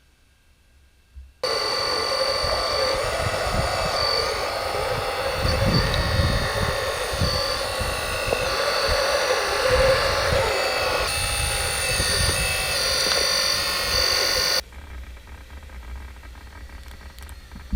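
Whine of a radio-controlled construction model's small electric motors and gearing, starting abruptly about a second and a half in, holding several steady tones that shift in pitch, and cutting off abruptly near the end, leaving a quieter background with faint ticks.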